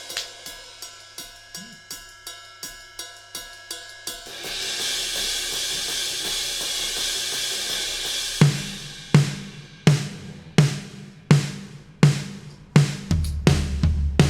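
Drum-led music: a hi-hat ticking about twice a second over a held chord, then a cymbal wash, then heavy kick-and-snare hits about every three-quarters of a second, with a deep bass line coming in near the end.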